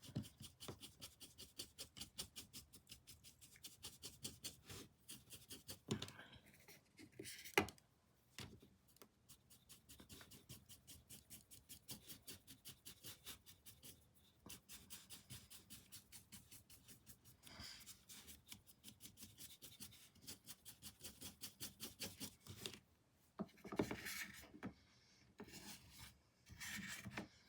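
A paintbrush scrubbing back and forth on canvas, its bristles brushing in quick strokes at about three a second, with a couple of louder taps and short pauses between runs.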